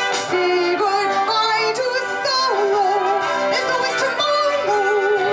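A woman singing with a wide vibrato, sustaining notes, over instrumental backing music.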